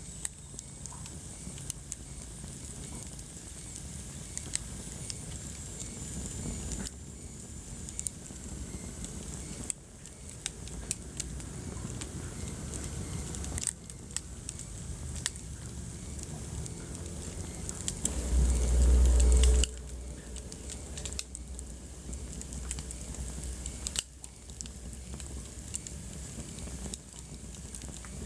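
Wood fire crackling in a fireplace: scattered pops and snaps over a soft steady hiss. A brief low rumble about two-thirds of the way through is the loudest moment.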